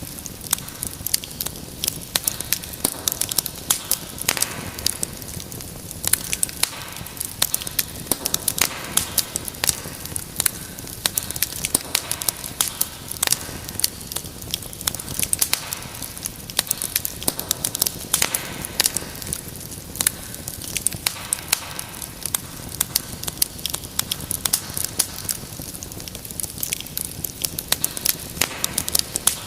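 Wood fire burning in a fireplace, with dense, irregular crackling and pops over a steady hiss.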